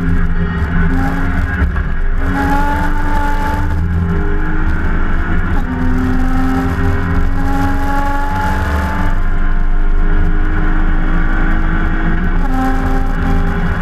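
BMW E30 325i race car's straight-six engine, heard from inside the car, pulling hard onto a straight. The revs climb steadily through each gear and drop at the upshifts, with one clear shift about twelve seconds in.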